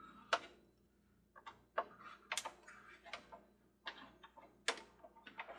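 Light, irregularly spaced clicks and taps of small parts and tools being handled and set down on a workbench, about eight in all.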